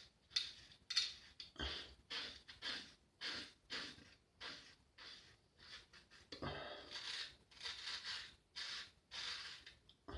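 Vintage Faynett lather-catcher safety razor with a wedge blade scraping through beard stubble in a run of short strokes, about one and a half a second, with one longer stroke about two thirds of the way through.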